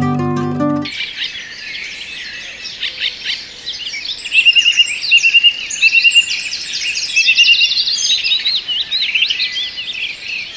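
A dense chorus of songbirds, many overlapping chirps and quick whistled calls, with a rapid repeated trill through the middle. Plucked-string music fades out about a second in, just before the birds begin.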